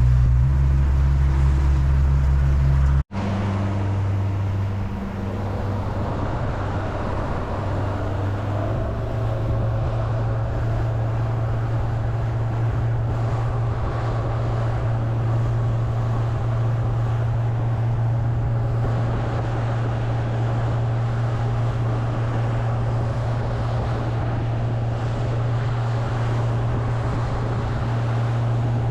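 Boat outboard motor running steadily under way, with water rushing along the plastic hull and some wind noise. The sound cuts out for an instant about three seconds in, then carries on steadily.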